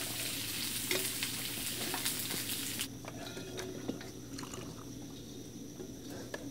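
Food frying in hot oil in a pan, a loud sizzle for about three seconds. It then drops away suddenly to a quieter background with a few light utensil clicks.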